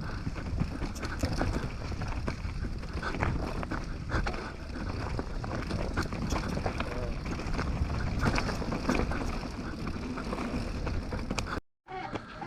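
Canyon Torque mountain bike riding down a rough dirt trail: steady tyre rumble and wind on the mic, with frequent sharp clatters and knocks from the bike over roots and rocks. The sound cuts off abruptly near the end.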